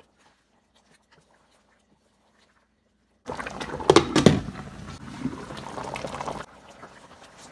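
Near silence for about three seconds, then a pot of creamy chicken sauce simmering and bubbling, with two knocks a little after it starts; from about three seconds before the end it is quieter.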